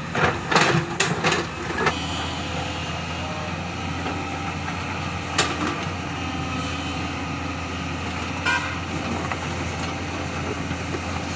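Heavy diesel machinery running steadily, as when an excavator loads a dumper. Several sharp metallic clanks come in the first two seconds, with single clanks about five and eight seconds in.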